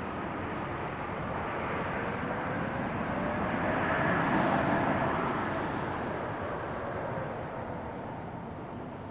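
Airbus A220-300 airliner's Pratt & Whitney PW1500G geared turbofan engines, a broad jet rumble that swells to its loudest about four seconds in and then fades, with a faint rising whine.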